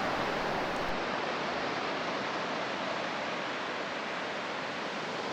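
Steady rushing wash of ocean surf breaking on a beach, an even noise with no distinct wave rhythm.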